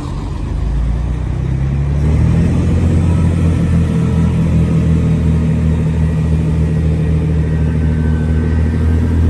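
Diesel multiple unit's underfloor engines throttling up as the train pulls away. A low engine drone that builds over the first two seconds, then holds loud and steady.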